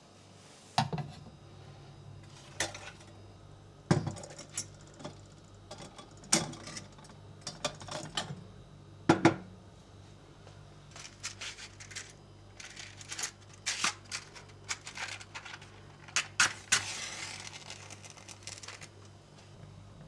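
Dishes and cutlery clinking and knocking as they are handled, in a couple of dozen scattered clinks, over a low steady hum.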